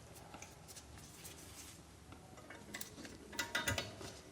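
Faint clicks and light metal clinks of hand tools and small parts being handled, with a few sharper clinks about three seconds in.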